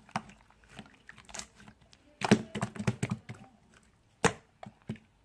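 Typing on a computer keyboard: irregular key clicks, with a quick run of keystrokes in the middle and a few single, sharper strokes near the end.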